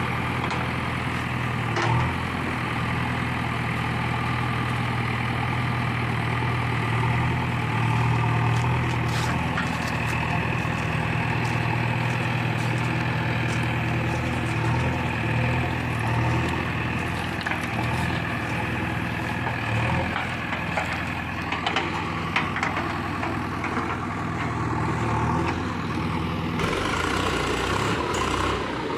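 Heavy diesel machinery engine running steadily at constant speed, with a few short knocks and clatters over it.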